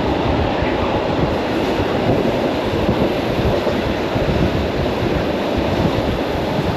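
Commuter electric train running along the track, heard from inside the carriage: a steady, even rumble of wheels and motors.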